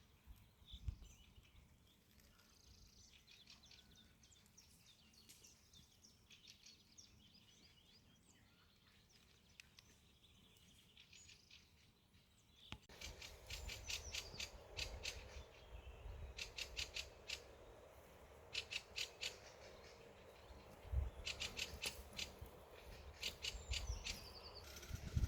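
Faint birdsong in the open countryside. About halfway through, the sound changes abruptly to a louder scene: bursts of rapid, crisp clicks recur every couple of seconds, with bird calls and occasional low thumps.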